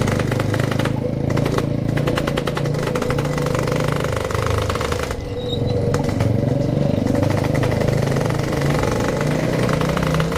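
Yamaha RX King 135cc single-cylinder two-stroke motorcycle engine under way, with a short ease-off of the throttle about five seconds in before it pulls again.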